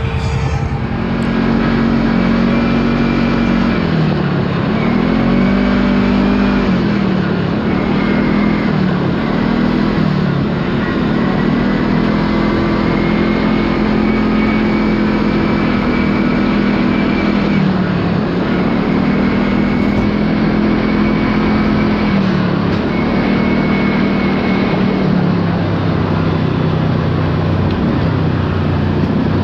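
Kawasaki Teryx KRX4 1000 side-by-side's parallel-twin engine running under throttle, its pitch rising and falling again and again as the throttle is worked on and off.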